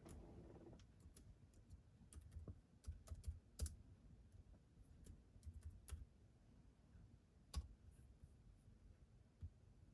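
Faint, irregular typing on a computer keyboard: scattered key clicks, two of them sharper and louder, one about a third of the way in and one near three-quarters.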